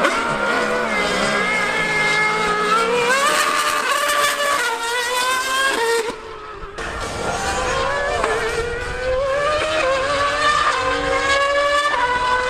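High-revving racing engine accelerating hard. Its pitch climbs and then drops back at each gear change, several times over. The sound dips briefly about six seconds in.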